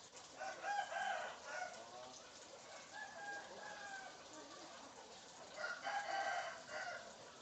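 Cock-a-doodle-doo crowing, twice, about five seconds apart, with a shorter, quieter call between the two.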